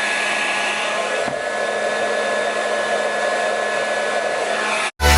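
FHI Heat Technique hand-held hair dryer running steadily, a constant blowing rush with a thin whine, as it blow-dries hair over a round brush. It cuts off abruptly just before the end.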